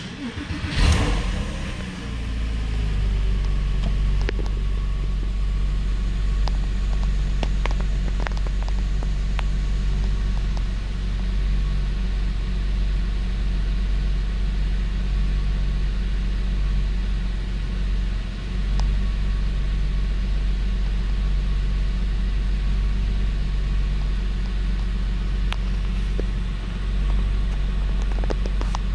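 2002 Porsche 911 Carrera 4S flat-six engine starting and settling into a steady fast idle. The raised revs are those of a cold engine, which will drop as it warms up.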